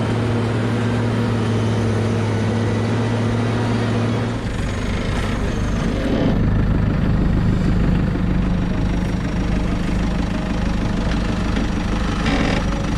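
Farm machinery engine running steadily. About four seconds in, the engine note changes to a different steady tone.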